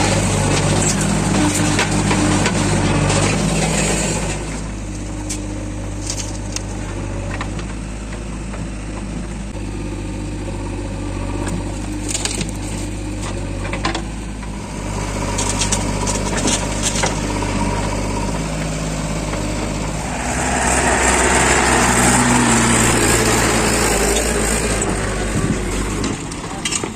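Diesel engine of a JCB 3DX backhoe loader running as it works, louder under load at the start and again from about 20 seconds in, with a quieter stretch between and a few scattered knocks.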